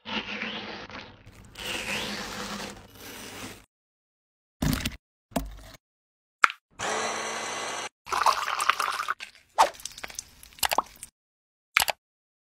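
Knife cutting into a whole watermelon, with crisp cracking and wet crunching for about three and a half seconds. A few short thuds follow, then a stick blender running for about a second over watermelon chunks. After that come sharp clicks and taps of plastic kitchenware.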